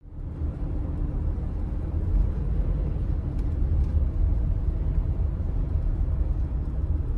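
Steady low road and engine rumble inside a moving Toyota Sienna minivan, with a faint steady hum above it.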